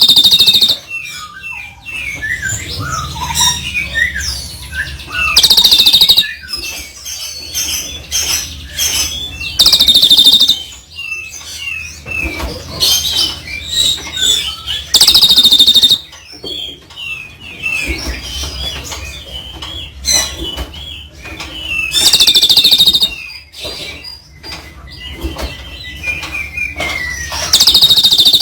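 Caged songbirds singing a rapid run of varied chirps and whistles. About every five seconds a loud, dense burst lasting about a second breaks in.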